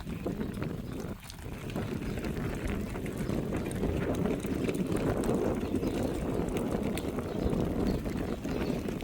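Strong blizzard wind buffeting the microphone, a rough, gusting rumble that swells in the middle.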